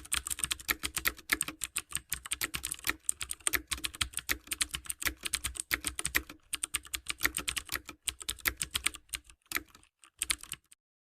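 Fast typing on a computer keyboard: a dense run of key clicks with short pauses, thinning out and stopping about ten and a half seconds in.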